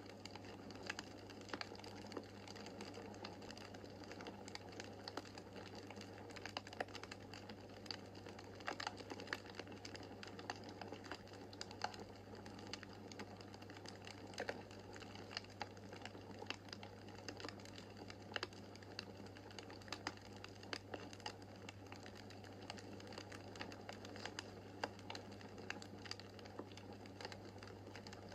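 Wood fire crackling in a fireplace: irregular sharp pops and snaps, many a second, over a faint steady hiss and a low steady hum.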